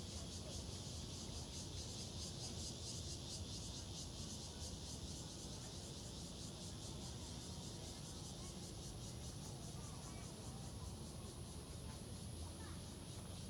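Chorus of insects chirping, a steady high, fast-pulsing trill that keeps on without a break.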